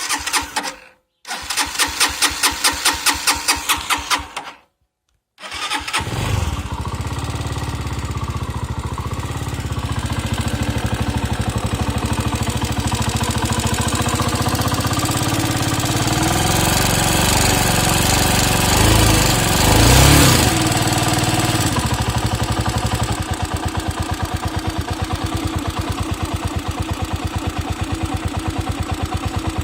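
A Chinese motorcycle engine is cranked over in two tries, catches about five seconds in, and settles into a steady idle with a brief rev near twenty seconds. Through the idle it has an even, rhythmic knock that the owner is sure is not the valves, cause unknown.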